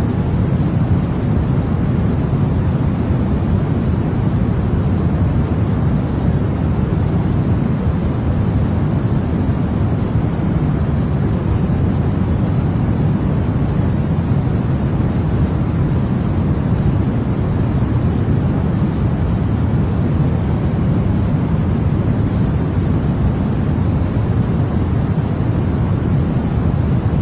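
Steady sleep noise for babies, sold as white noise. It is an even, unchanging rush with its weight in the low end, so it sounds deep rather than hissy.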